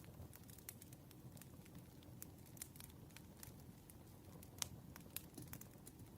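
Campfire crackling faintly: irregular small pops and snaps over a low steady rumble, with one sharper pop about four and a half seconds in.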